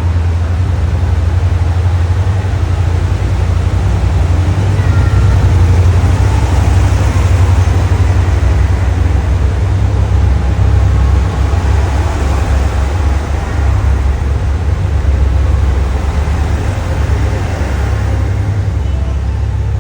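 KiHa 189 series diesel multiple unit pulling out of the station, its diesel engines working under load with a deep, steady rumble that eases slightly near the end.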